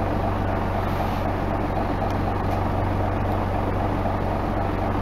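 Isuzu Erga Mio bus under way, its engine and road noise making a steady, even drone with no change in pace.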